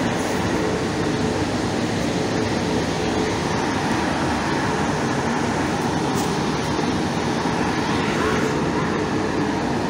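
Steady running noise of a train, with a couple of faint clicks.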